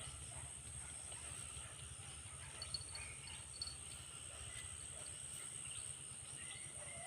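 Outdoor ambience dominated by a steady, high-pitched insect drone, with a low rumble beneath and a few short bird chirps scattered through it. Two faint clicks come a little under a second apart near the middle.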